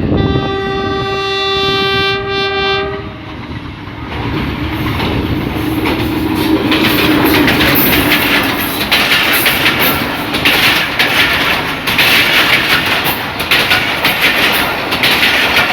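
Horn of an HBU20 diesel-electric locomotive sounding one steady blast of about three seconds. The train then runs on under power, with rhythmic wheel clatter over the rail joints that grows louder.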